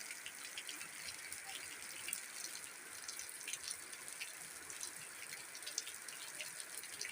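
Rain falling steadily: a constant hiss peppered with many small ticks of drops hitting surfaces.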